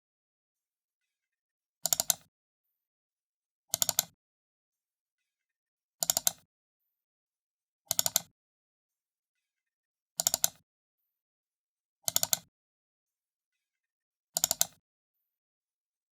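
Computer mouse button double-clicked over and over, a pair of quick clicks about every two seconds, seven or eight times, with silence between.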